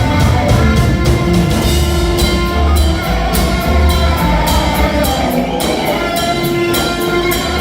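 Live band music with a drum kit and strong bass, cymbal strikes keeping a steady beat.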